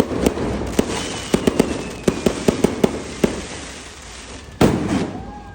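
Multi-shot fireworks cake going off: a quick string of sharp bangs over steady crackling, with a faint falling whistle, then one much louder bang about four and a half seconds in.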